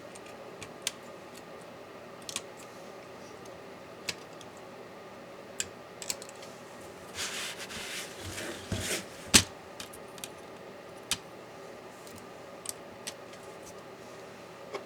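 Small tools and metal laptop parts being handled during a laptop teardown: scattered light clicks and taps, a couple of seconds of scraping and rubbing about halfway through, then one sharp click.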